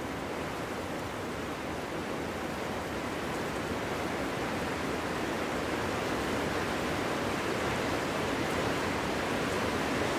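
Wind blowing steadily: a continuous, even rushing noise with no gusts or breaks, growing slowly louder.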